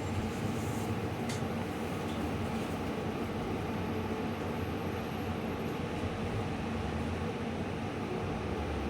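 Steady running noise heard inside the cabin of a 2018 New Flyer Xcelsior XT40 electric trolleybus with Vossloh Kiepe traction motors, travelling between stops with a faint low hum beneath the rumble.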